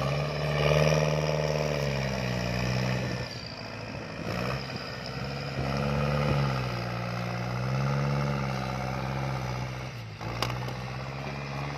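Kubota L4708 tractor's diesel engine working under load while pushing soil, its pitch rising and falling several times as the load and throttle change.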